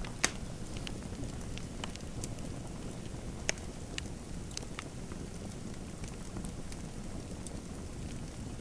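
Fireplace fire crackling: a steady low rumble with scattered sharp pops, the loudest about a quarter second in and another about three and a half seconds in.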